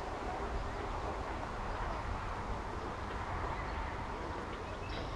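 Pond ambience: a steady outdoor background with a low rumble beneath and faint bird twittering, with a brief burst of bird chirping near the end.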